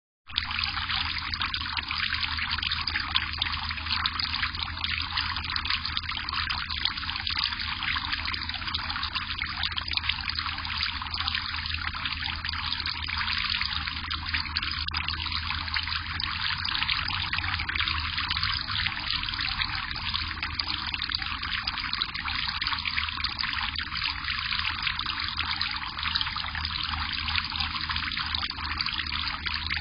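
Steady trickle of running water at a bird bath, with a constant splashing patter and no pauses.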